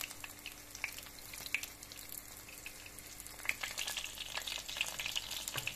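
Cornflake-breaded chicken nuggets frying in hot vegetable oil in a pan: a steady sizzle with scattered crackling pops that grow denser and louder about three and a half seconds in.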